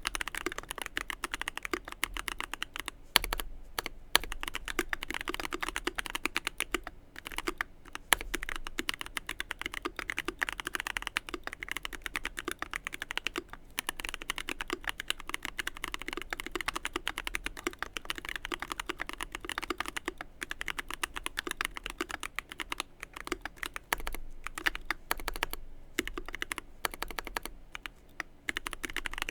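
Fast continuous typing on a Keychron Q1 mechanical keyboard with lubed and filmed Everglide Oreo tactile switches, a brass plate and GMK keycaps: a dense run of keystrokes with brief pauses now and then, and an occasional louder stroke such as the spacebar.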